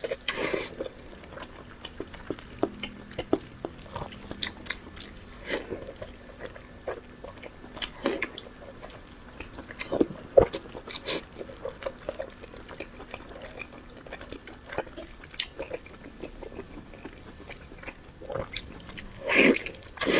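Close-miked eating: irregular wet mouth clicks, smacks and chewing as someone bites and chews food, with a louder burst of chewing near the end.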